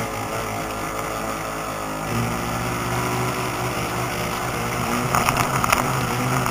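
Radio-controlled model boat motors running steadily on the water, their pitch shifting about two seconds in. A spell of crackling comes near the end.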